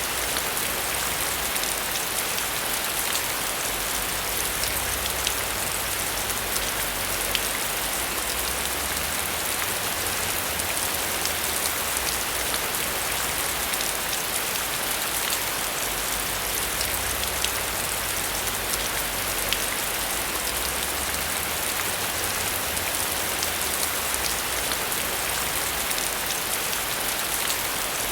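Steady heavy rain falling on surfaces, with a dense hiss and scattered sharp drop ticks over a low rumble that swells and fades.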